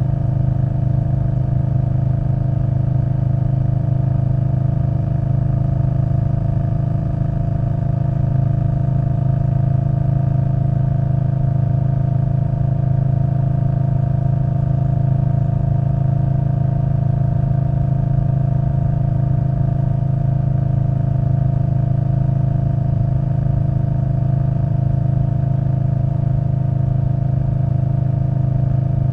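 2021 Indian Scout Bobber Twenty's 1133 cc V-twin through a Vance & Hines Twin Slash exhaust, cruising at a steady engine speed, with low wind rumble on the microphone.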